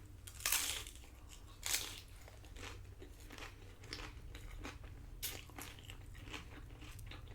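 Tostitos tortilla chips loaded with nacho toppings crunching as they are bitten and chewed: a loud crunch about half a second in, another just over a second later, then a run of fainter chewing crunches.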